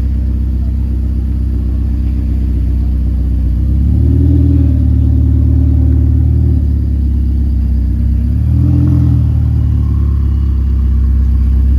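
Car engine idling, revved up twice: a held rev about four seconds in lasting a couple of seconds, then a shorter blip about eight and a half seconds in, each dropping back to idle.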